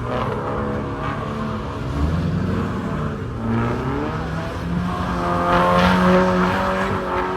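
A car's engine revving hard while the car slides sideways, its tyres squealing. The revs climb, then hold high for a couple of seconds around the middle.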